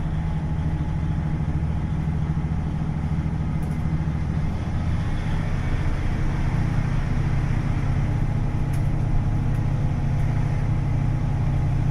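KiHa 40 diesel railcar's DMF15HSA six-cylinder diesel engine running steadily under the floor, heard from inside the car, with the engine note shifting about five seconds in.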